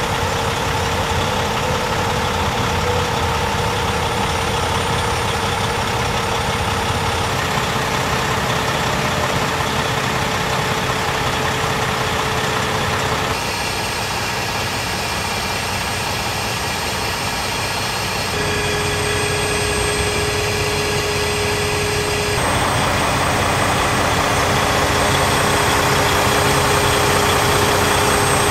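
2005 Freightliner Columbia semi truck's diesel engine idling steadily. Its tone and level change abruptly four times.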